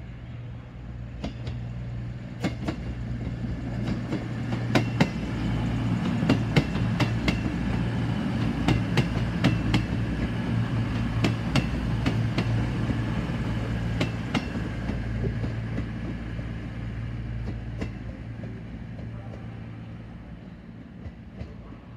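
CrossCountry Voyager diesel multiple unit passing along the platform: a steady low hum from its underfloor diesel engines, with wheels clicking over rail joints and points. It grows louder as it draws level and fades as it moves away.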